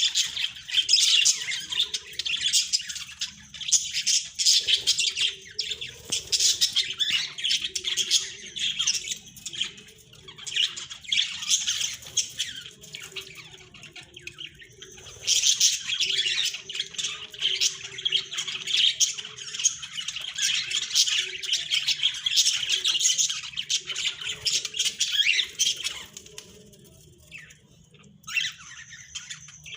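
Caged budgerigars chattering and squawking in a dense, rapid stream, easing briefly about halfway through and again near the end.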